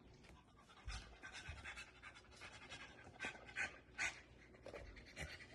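A dog panting faintly in quick soft breaths, with a couple of soft low thumps about a second in.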